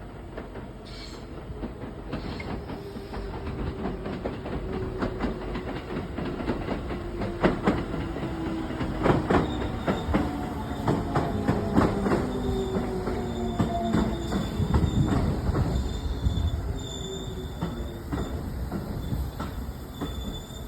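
Electric train running on the Iida Line, growing louder then easing off. Its wheels click over the rail joints, loudest and most frequent in the middle, while several whining tones slowly fall in pitch as it slows.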